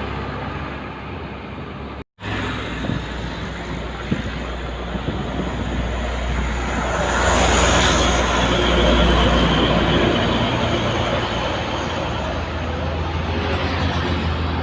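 Heavy trucks running along a highway with tyre and traffic noise under a low engine drone. The sound cuts out briefly about two seconds in. It grows louder from about seven seconds in as a truck passes close.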